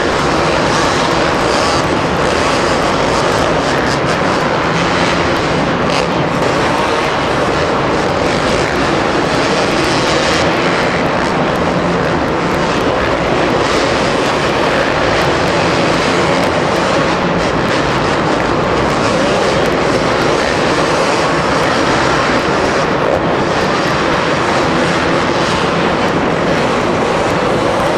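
Two-stroke motocross bike engines revving hard and continuously as the bikes ride the track.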